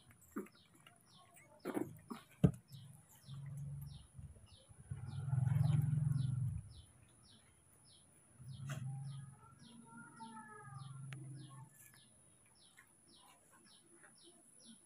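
A bird chirping in a quick, steady series of short high chirps, about two or three a second, with a few soft clicks and low rumbles in between.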